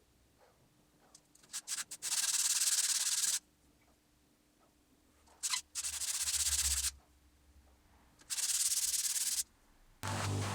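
Three separate bursts of hiss, each about a second long and starting and stopping sharply, with a few faint clicks before the first two. A steady hum begins near the end.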